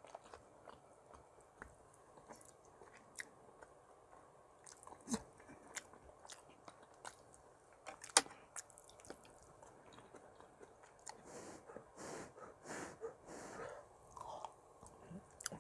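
A person eating soft tofu and kimchi stew: quiet chewing and wet mouth sounds, with scattered sharp clicks. A run of louder smacking mouth noises comes near the end.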